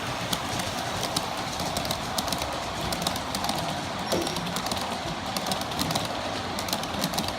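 G scale model train running steadily on its track, with frequent light clicks from the wheels on the rails.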